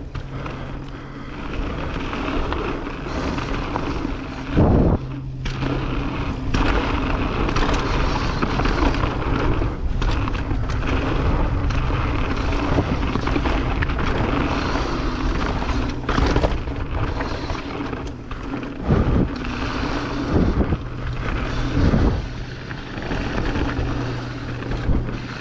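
Mountain bike riding along a trail: a steady rush of tyre and wind noise on the microphone under a constant low hum, with sharp knocks and rattles from bumps, loudest about five seconds in and several times near the end.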